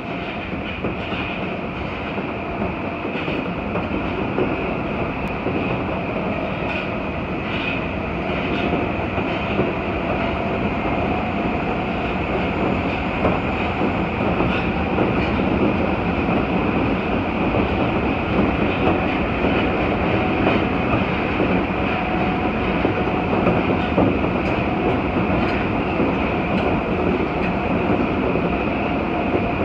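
An electric train running, heard from inside the carriage: a steady running noise with a faint whine and scattered light clicks from the wheels on the rails, growing slightly louder over the first half.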